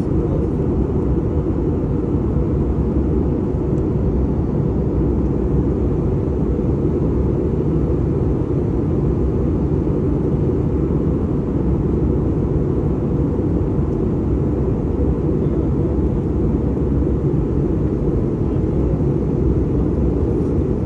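Steady low rumble of engine and airflow noise inside an airliner cabin in flight.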